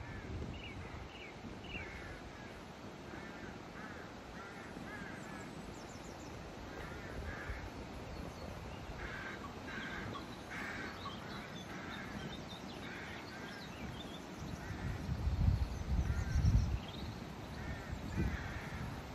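Birds calling in a long series of short, repeated calls, with a few low rumbles about three quarters of the way through.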